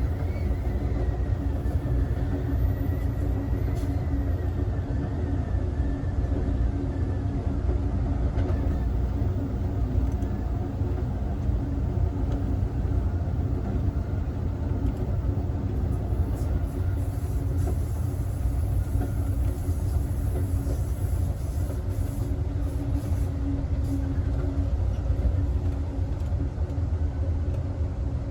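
Amtrak passenger train running steadily on the rails, a continuous low rumble of wheels and car body heard from inside the last car.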